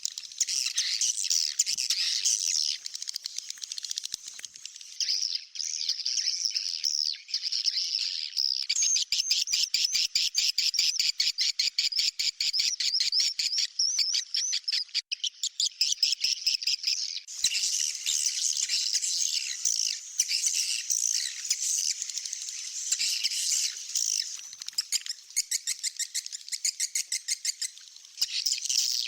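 Edited edible-nest swiftlet call track: dense, high chirping and twittering of swiftlets, with a fast, rapidly repeated rattling trill through the middle. It is the kind of lure sound played in swiftlet houses to draw the birds in to roost.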